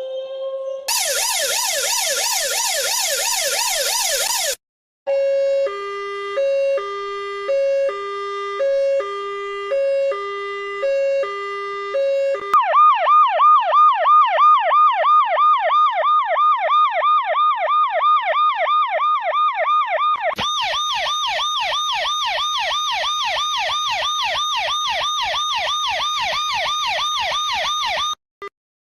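A run of electronic emergency-vehicle sirens: first a rapid sweeping siren, then a two-tone high-low siren alternating about once a second, then a fast yelp rising and falling about three times a second, which goes on with a hiss over it before cutting off near the end.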